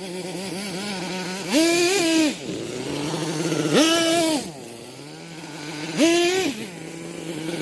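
Kyosho Mad Force nitro RC monster truck's small glow-fuel engine idling, blipped three times in short bursts of throttle, each rising in pitch for about a second and dropping back to idle.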